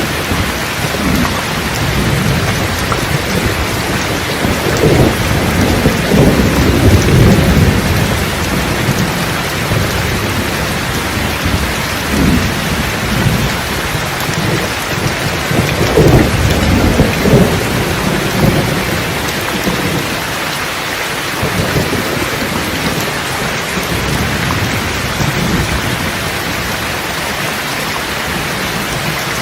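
Steady rain falling, with thunder rumbling in low rolling peals several times; the loudest rolls come about five to eight seconds in and again around sixteen to eighteen seconds in.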